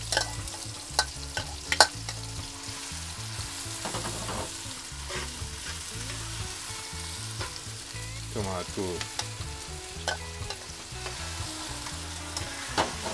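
Onion and carrot sizzling in hot oil in an aluminium pot while a wooden spoon stirs and scrapes them. A few sharp knocks of the bowl and spoon against the pot come in the first couple of seconds, as the carrots are tipped in.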